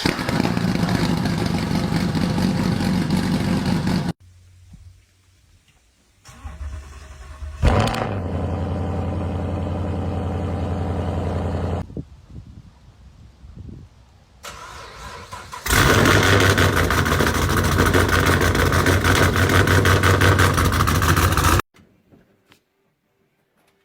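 Several V8 car engines with loud exhausts being cold-started, one clip after another. The first runs loud and cuts off abruptly about four seconds in. A second catches with a sharp bang about eight seconds in and settles into a steady high idle. A third fires up near sixteen seconds and runs loud until it cuts off abruptly.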